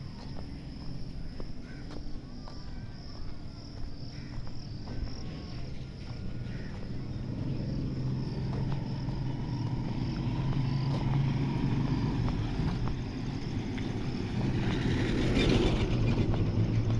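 Motorcycle engine running, growing louder over the second half with a louder surge near the end, over a steady high insect-like drone.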